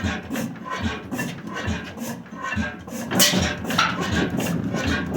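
1898 Crossley hot-tube-ignition gas engine running, with a rhythmic beat of low thumps and mechanical clatter about two to three times a second, slightly uneven in spacing.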